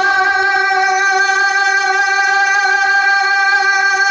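Music: an accompanying instrument holds one steady chord for several seconds between sung lines of a devotional Urdu song.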